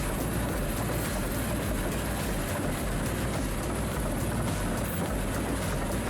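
Large bulldozer's diesel engine running steadily.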